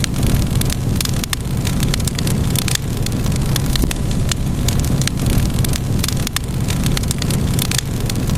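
Wood fire crackling: many short, sharp pops at irregular intervals over a steady low hiss of burning.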